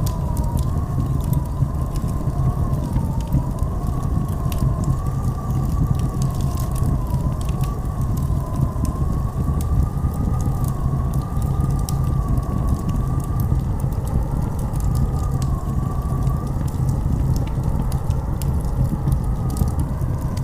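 Howling blizzard wind: a deep steady rumble under a wavering, whistling moan that slowly rises and falls in pitch, with scattered faint crackles.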